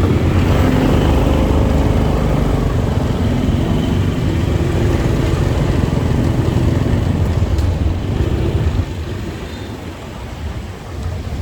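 Motorcycle riding through city traffic: a steady, heavy low rumble of engine and road noise, easing off for a couple of seconds near the end before building again.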